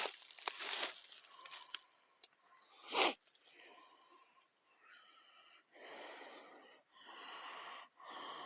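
A person breathing heavily with a wheezy, whistling edge: a sharp breath about three seconds in, then long breaths in the second half, with rustling near the start.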